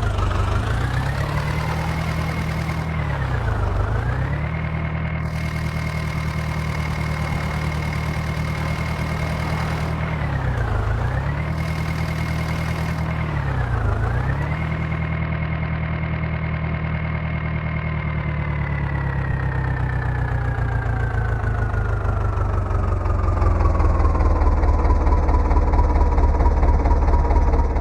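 Diesel engine of a JCB 3DX Eco backhoe loader held at high revs, dipping briefly three times and recovering, then slowing gradually to a lower steady speed near the end.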